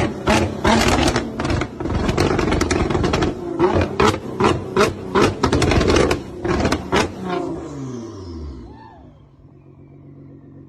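Loud high-performance car exhaust, the engine running hard with many sharp pops and cracks. About seven seconds in the engine note slides down in pitch and fades as the car moves away.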